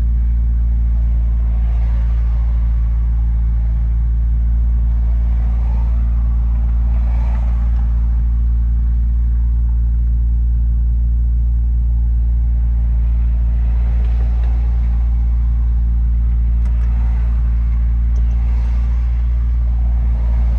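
Turbocharged Honda Civic D17 four-cylinder engine idling steadily at a high idle of about 1700 rpm.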